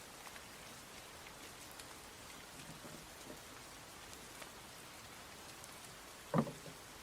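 Steady rain falling, with scattered drop ticks. A single short knock near the end is the loudest sound.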